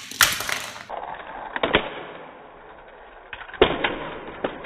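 A die-cast Hot Wheels car running along plastic Track Builder track after the rocket launcher fires: a rattling clatter, with several sharp plastic clacks and knocks, one about a second and a half in and a loud one at about three and a half seconds.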